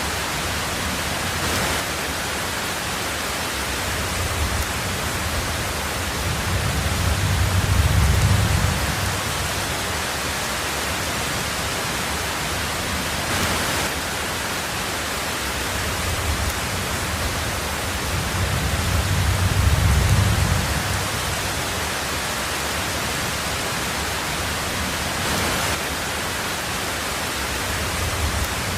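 Heavy rain drumming steadily on a tin roof, with two low, rolling rumbles of thunder swelling and fading, about a quarter of the way in and again about two-thirds of the way in.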